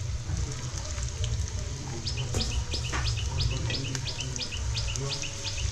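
A bird chirps in a rapid run of short falling chirps, about four or five a second, starting about two seconds in. Under it are a steady low rumble and the hiss of sliced onions frying in oil in a pan over a gas flame.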